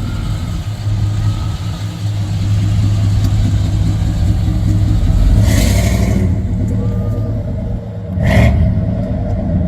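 Car engine running while driving, with a steady low drone and two short louder rushes of noise, about five and a half and eight seconds in.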